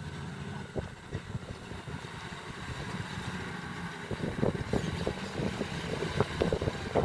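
Heavy earthmoving machine's diesel engine running steadily, with a rapid run of knocks and clatter starting about four seconds in.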